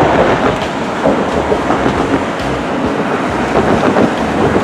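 Heavy construction machinery, such as an excavator or dump truck, with its diesel engine running low and steady under a dense, continuous clatter and rattle of metal.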